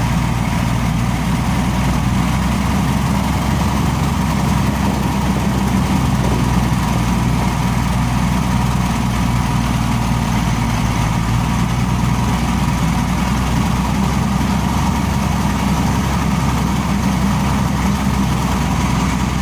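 Compressor running steadily with an even, unchanging low engine hum.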